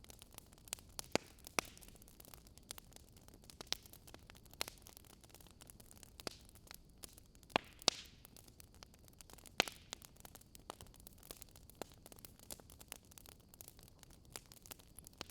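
Faint wood fire crackling: a soft steady hiss with irregular sharp pops and snaps, a few louder ones about a second in and again around eight to ten seconds.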